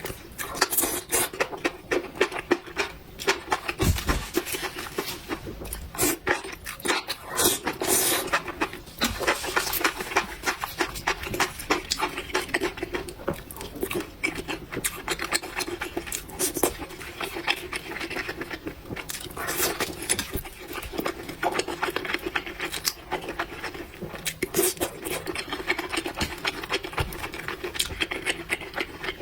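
Close-miked eating of noodles: a dense, irregular run of wet mouth clicks and smacks from slurping and chewing.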